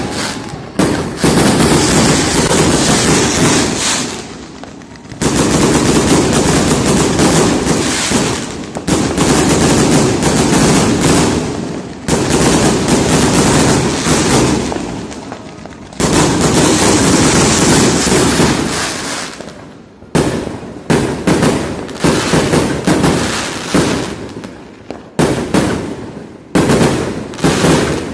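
Fireworks going off in dense, rapid volleys of bangs, each volley lasting several seconds, then shorter separate bursts about once or twice a second from about twenty seconds in.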